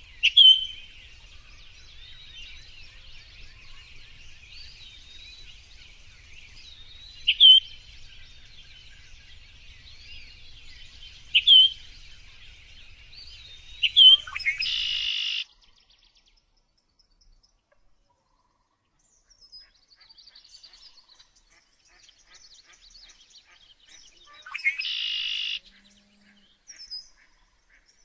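Small songbirds chirping and twittering, with a loud, sharp call every three to four seconds. About halfway through, the background cuts off suddenly and sparser chirps follow, with two short harsh, buzzy notes.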